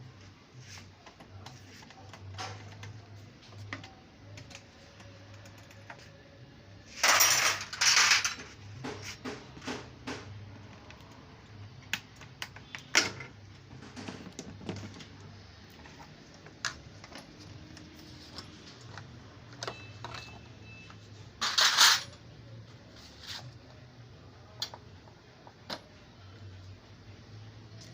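Metal clinks, taps and knocks of tools and car parts as a damaged car is being taken apart, over a low steady hum. Short loud bursts of noise cut in twice in quick succession about seven seconds in, and once more about 22 seconds in.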